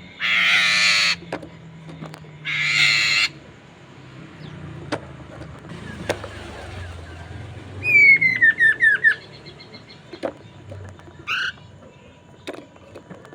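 Poksay mandarin, a laughingthrush, calling and singing: two loud, harsh raspy calls in the first three seconds. About 8 s in comes a quick run of about six whistled notes, each sliding downward. A few short chirps follow near the end.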